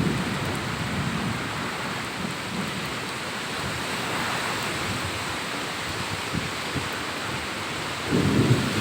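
Steady hiss of heavy rain, with wind buffeting the microphone in gusts starting about eight seconds in.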